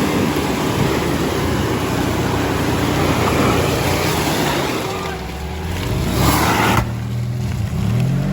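Off-road 4x4 engine running and revving under a loud rushing noise. About five seconds in the engine's pitch rises, and near seven seconds the rushing noise cuts off suddenly, leaving the engine.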